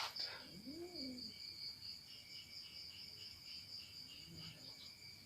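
Insects chirring steadily in several high, even trills, with a pulsing trill beneath them. A short rising-and-falling call comes about a second in, and a fainter one near four seconds.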